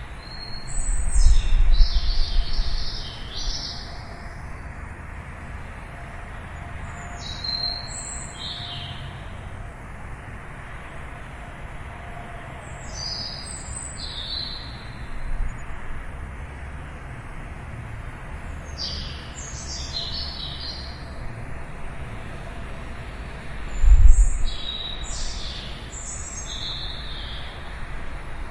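A songbird singing short phrases of quick high chirps, five of them about five to six seconds apart, over a steady low background hum. Two brief low rumbles break in, a weaker one about a second in and a louder one near the end.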